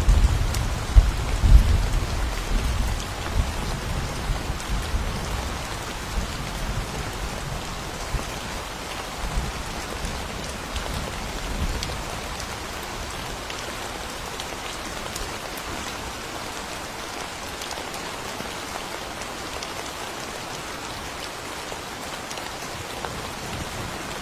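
Steady rain falling, with a low rumble of thunder at the start that fades away over the first several seconds, leaving only the even hiss of the rain.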